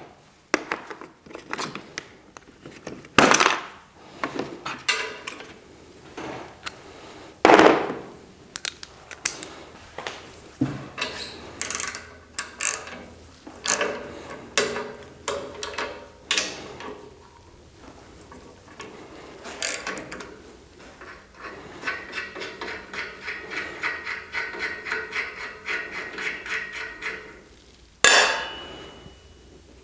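Hand tools knocking and clanking on a steel band saw's parts as it is taken apart. In the second half a ratchet wrench clicks quickly and evenly for about six seconds, followed by one loud knock.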